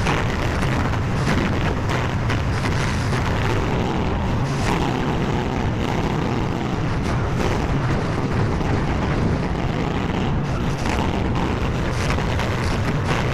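Skid steer loader engine running steadily with a constant low drone, with frequent short knocks and clanks through it.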